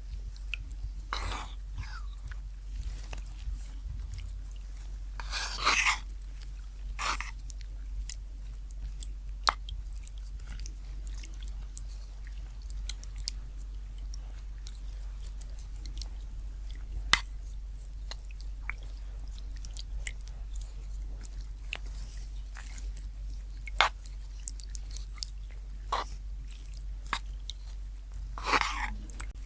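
Close-miked ASMR eating sounds: chewing, with scattered soft mouth clicks and a few short noisy bursts, the biggest about six seconds in and near the end, over a steady low hum.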